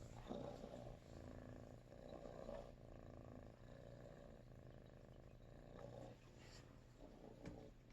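Russian Blue cat purring softly, the purr swelling and easing in a slow rhythm with its breathing.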